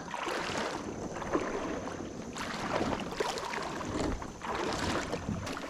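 Water sloshing and splashing in irregular swishes around a kayak as it is moved through shallow river water.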